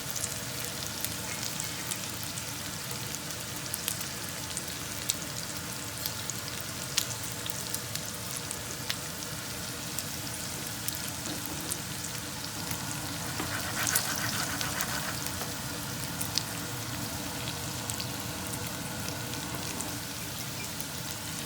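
Thinly sliced chicken frying in olive oil in a pan: a steady sizzle with scattered crackling pops, swelling louder for a second or so about two-thirds of the way through.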